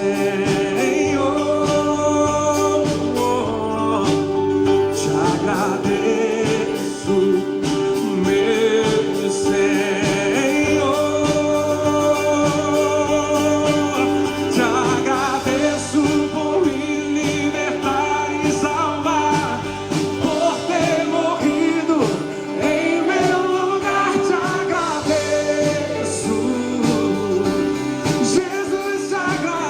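Live gospel worship song: a singer's voice over sustained instrumental accompaniment, continuing without a break.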